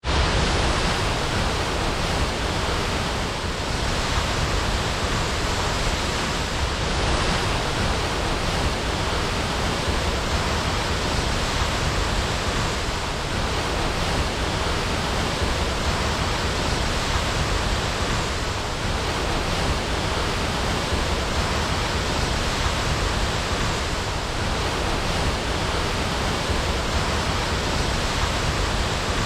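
Waterfall: water falling and rushing in a steady, unbroken wash of sound.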